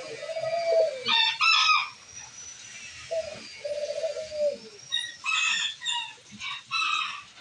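Birds calling: two low cooing phrases, each a short note then a longer one that falls away, typical of a dove, alternating with short clusters of higher, harsher calls from chickens.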